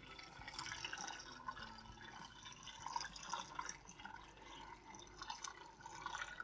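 Water trickling and dripping steadily down a small cement tabletop waterfall fountain, a fast, irregular patter of small splashes.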